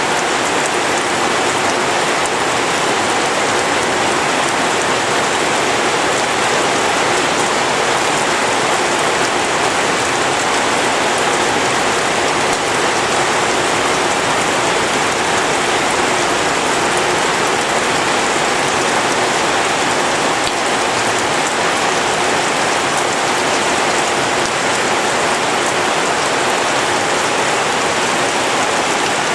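Steady rain falling on rice paddies, an even dense hiss of drops without let-up.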